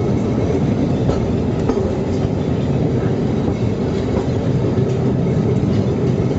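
Electric street tram running along its tracks: a steady low rumble with faint, scattered clicks from the wheels on the rails.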